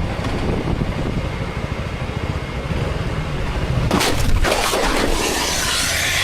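Heavy wind and road rumble from a moving motorcycle, with a burst of sharp knocks about four seconds in followed by a rising hiss.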